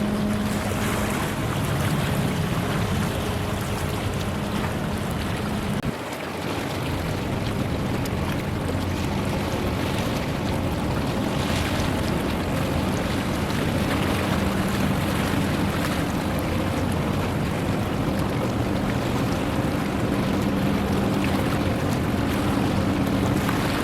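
Steady low drone of a passing ship's engine over a wash of wind and water noise. It breaks off briefly about six seconds in, then resumes.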